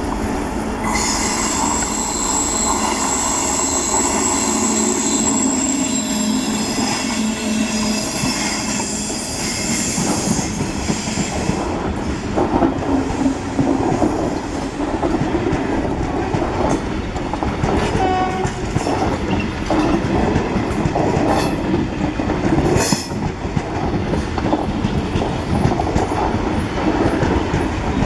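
Electric-hauled express trains passing close by. A long, steady, high tone sounds for the first ten seconds or so and fades out; after that the wheels keep clattering over the rail joints, with repeated knocks.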